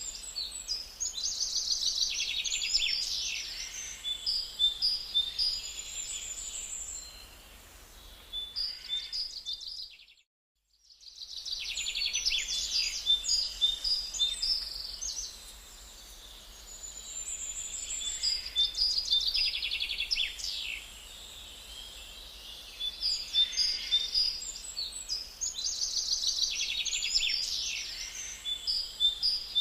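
Birds chirping and singing in repeated high-pitched phrases of trills and tweets. The sound cuts out completely for about a second, roughly ten seconds in.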